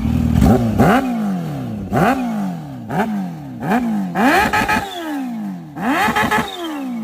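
Motorcycle engine revved in repeated throttle blips, about one a second, each pitch rising sharply and then falling away.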